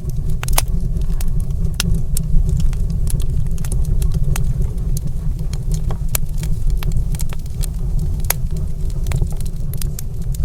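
Wood fire crackling in a stone fireplace: irregular sharp pops and snaps, several a second, over a steady low rumble.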